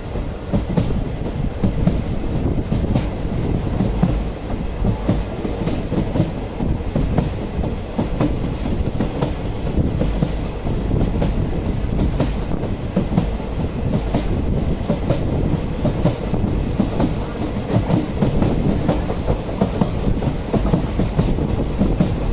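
Indian Railways express passenger coach running at speed: a steady rumble from the wheels on the track, with irregular knocks as the wheels pass over rail joints.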